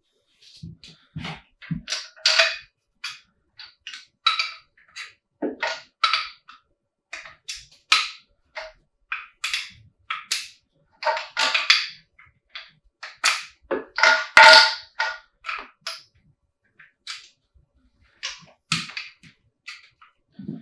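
Metal engine parts and hand tools clinking and knocking as they are handled during an engine teardown: many irregular sharp clanks, some ringing briefly, with quiet gaps between.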